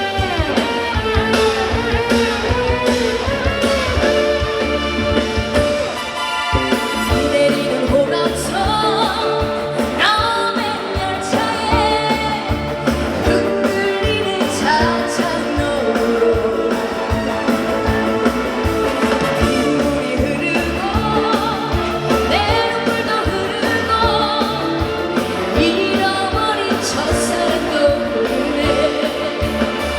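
A trot song performed live: a woman singing over a backing track with electric guitar.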